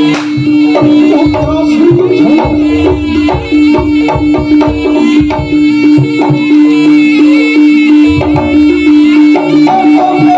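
Live Javanese jaranan ensemble music: hand drums play a busy rhythm under a long, steady held note, with melody lines above.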